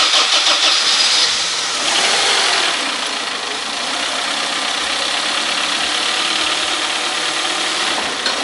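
1998 Honda CR-V 2.0-litre petrol engine running just after its first start following a crankshaft main-bearing repair, louder for about two seconds and then settling to a steady idle. The knock it had before the repair is gone.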